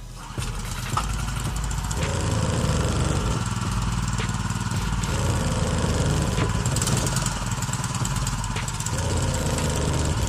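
Small gasoline engine of a pressure washer running steadily at a constant speed, with a continuous low hum.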